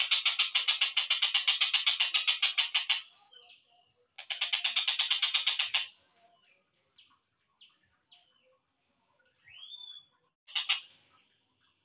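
Collared kingfisher (tengkek buto) chattering call, played back slowed down: a fast even run of about eight notes a second that stops about three seconds in, a second run of about two seconds, then a few short chirps, one rising-then-falling call and a brief burst near the end.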